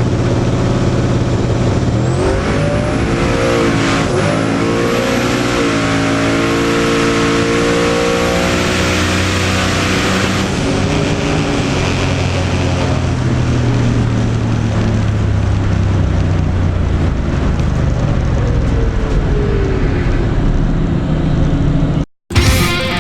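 Twin-turbo drag car engine accelerating hard, its pitch climbing in several steps through the gears over a high whine. It then winds down with a slowly falling pitch. Rock music cuts in just before the end.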